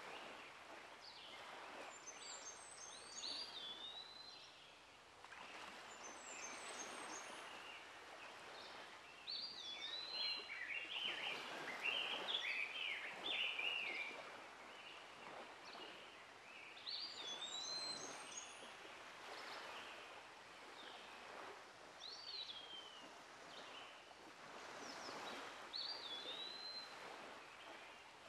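Birds singing outdoors: short chirping phrases of quick high notes and looping whistles, repeated every few seconds over a steady, gently swelling outdoor ambience.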